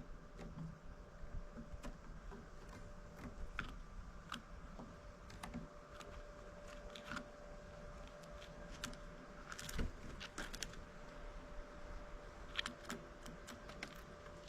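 Irregular sharp taps and clicks of great tits pecking and hammering at seeds, with a louder flurry about ten seconds in. A faint steady hum sets in about halfway through.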